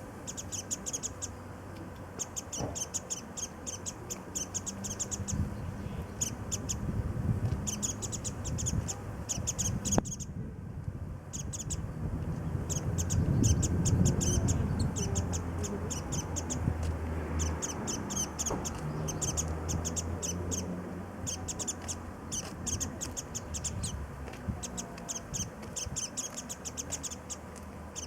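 Japanese white-eyes calling, rapid runs of thin, high chirps in bursts, pausing briefly about a third of the way in. A low rumble underneath swells in the middle.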